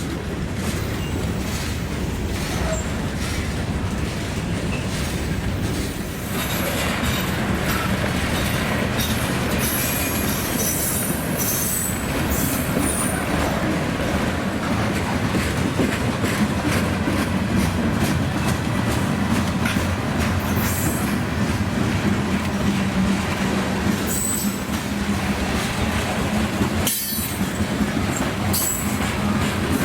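Freight train cars rolling past, wheels clicking over the rail joints with brief high-pitched flange squeals. A steady low hum joins in about halfway through.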